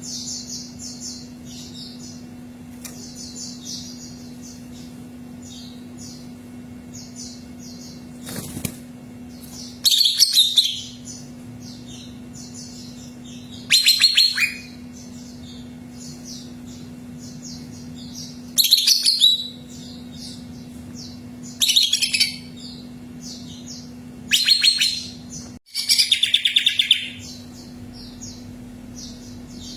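Cucak ijo (green leafbird) singing in short, loud bursts of rapid, chattering high notes, about six phrases a few seconds apart. Faint high chirping runs continuously underneath, over a steady low hum.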